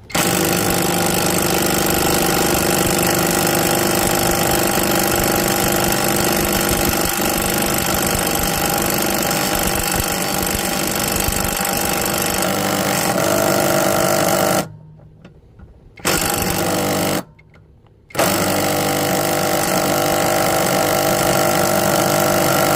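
Bauer brushless 3/8-inch cordless impact wrench hammering on a lawnmower blade bolt, running steadily for about fifteen seconds. It stops, gives a short burst of about a second, stops again, then hammers on steadily.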